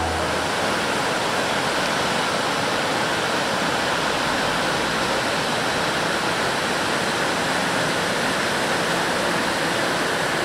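River water rushing with a steady, even sound.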